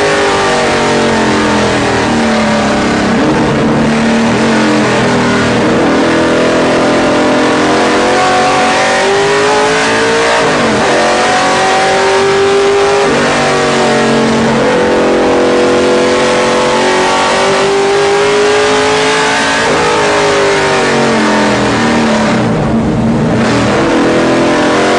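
Ford Mustang race car's engine heard from inside the cockpit at racing speed, revving up through the gears and dropping in pitch at each shift or braking point. Near the end it eases off the throttle and then picks up again, with wind and road noise throughout.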